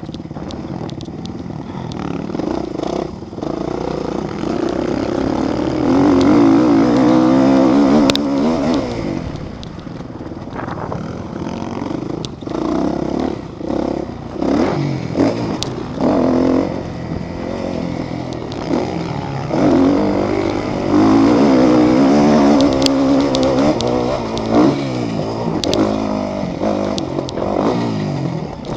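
Motocross dirt bikes racing, engines revving up and down with repeated throttle chops and blips. The engine sound swells loudest twice, about six seconds in and again around twenty seconds in.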